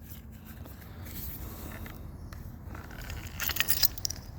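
A brief jingling rattle of small metal parts about three and a half seconds in, over a low steady rumble.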